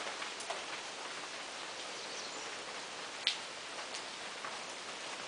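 Steady rain falling, with scattered drops ticking on surfaces close by and one sharper drip or tap about three seconds in.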